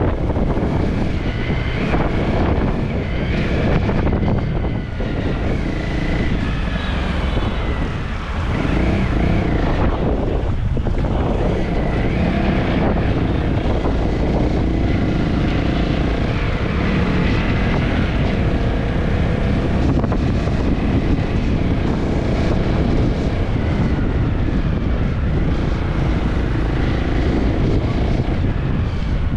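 Wind buffeting the microphone over a running motorcycle engine whose pitch rises and falls with the throttle.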